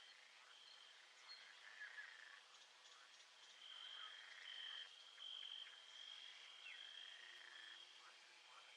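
Faint nature ambience of small animals calling: a high trill that comes and goes, with short chirps over it.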